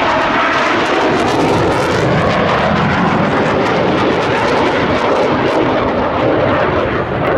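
Blue Angels Boeing F/A-18 Hornet fighter jets flying by, a loud, steady jet-engine roar.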